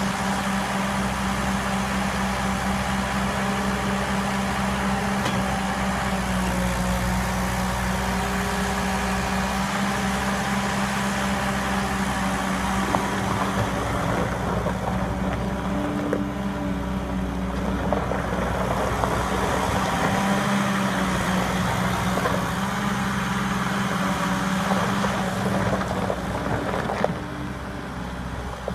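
Skid steer loader engine running at a steady pitch, with a few short knocks and clatters along the way.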